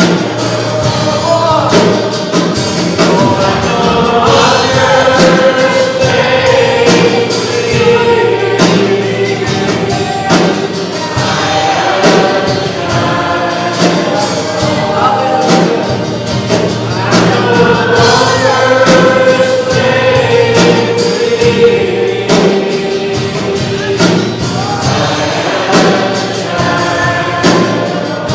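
Congregation and band singing a gospel hymn together, sung voices over a steady beat.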